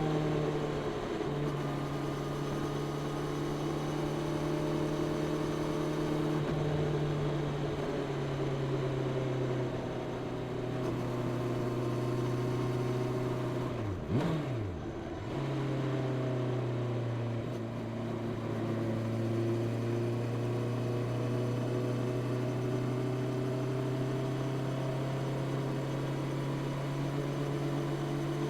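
Honda CB650R's 649 cc inline-four engine through its stock exhaust, running at a steady cruise under way. About halfway through, the revs drop sharply and then climb back up within a second or so, before settling into a steady note again.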